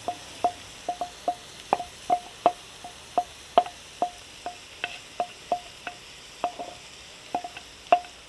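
Cooking spoon knocking against a metal pan about three times a second while stirring chopped onions frying in coconut oil, each knock with a short metallic ring.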